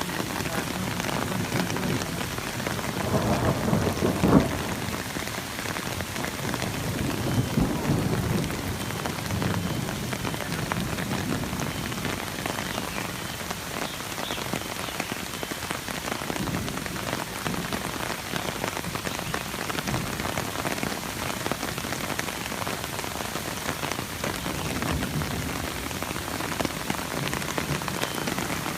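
Hail and heavy rain pelting down in a dense, steady patter, with a low rumble of thunder swelling about three to four seconds in and another around eight seconds.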